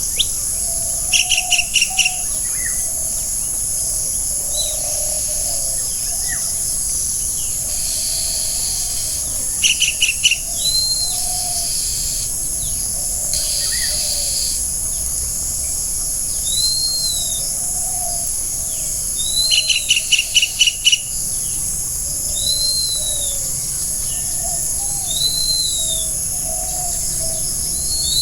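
Forest birds calling over a steady high insect chorus. Three bursts of quick repeated chirps come about ten seconds apart, short rising-and-falling whistled notes recur every few seconds, and lower warbling calls run underneath.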